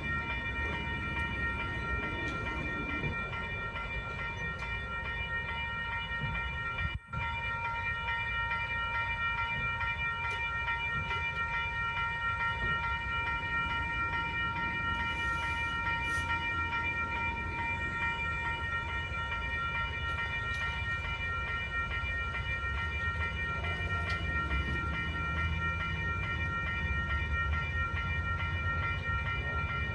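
Metra commuter train at a downtown grade crossing, its low rumble building in the second half, under a steady high ringing of the crossing warning bells that does not let up. The sound briefly cuts out about seven seconds in.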